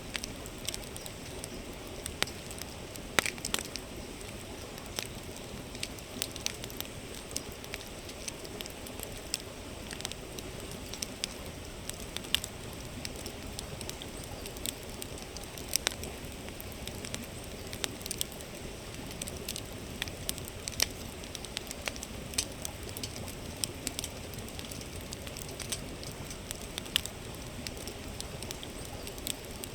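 Wood campfire crackling, with irregular sharp pops and snaps, over the steady rushing murmur of a flowing river.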